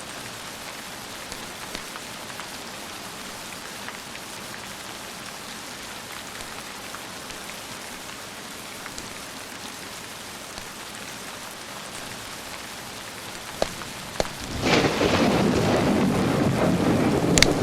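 Steady rain falling, then about fourteen seconds in a sharp crack or two and a loud clap of thunder that keeps rumbling.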